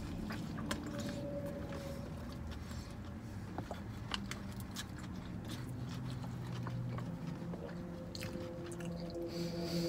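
A man biting into a soft-bun steak and cheese sandwich and chewing with his mouth close to the microphone, small wet mouth clicks scattered through, over a faint low hum.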